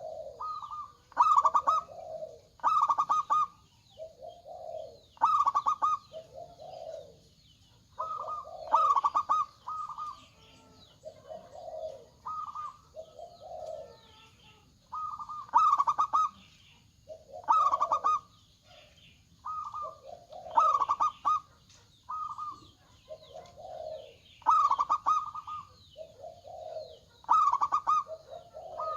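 Zebra doves (perkutut) cooing: phrase after phrase of quick stuttering higher notes and lower drawn-out coos, repeating about every second or two.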